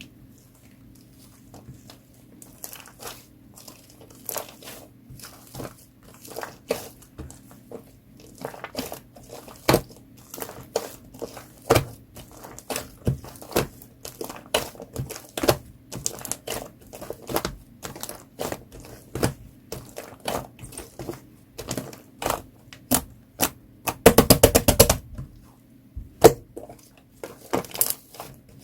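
Clear orange slime packed with air bubbles and topped with shaving foam being squished and stretched, giving a stream of crisp pops and crackles as the trapped bubbles burst. Near the end comes a fast rattling flurry of pops.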